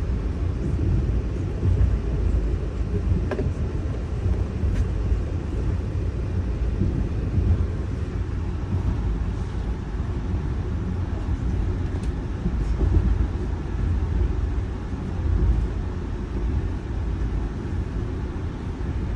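Amtrak Ethan Allen Express train running, a steady low rumble with a few faint clicks and no horn.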